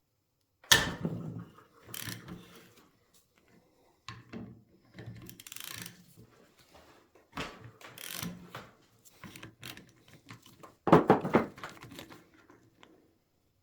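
Irregular clatter and knocks of metal tools and parts being handled on a workbench, with short gaps between. The loudest rattle comes about eleven seconds in.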